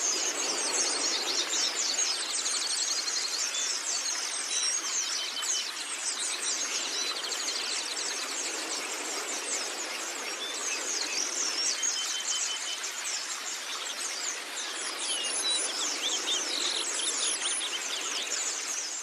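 White-eyes (pleci) singing: a fast, unbroken high twittering of quick chirps and trills over a steady hiss.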